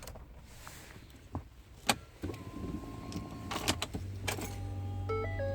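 Sharp clicks and knocks in the cab of a 2012 Ford F-150, the loudest about two seconds in. From about four seconds a steady low electric hum runs, and near the end the truck's stepped dashboard chime tones sound. This is typical of the ignition being switched off and back on to reset the stalling 3.5 L EcoBoost engine.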